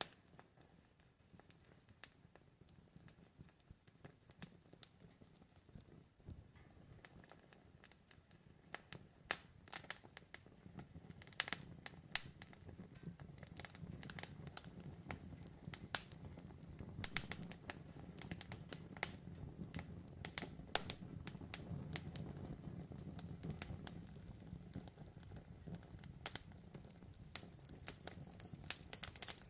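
Campfire crackling, with many scattered sharp pops over a low background of burning. About 27 seconds in, crickets start chirping steadily.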